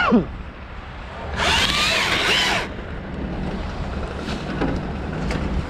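Strong wind buffeting the microphone over a steady low engine hum, with a loud gusty rush about a second and a half in that lasts just over a second.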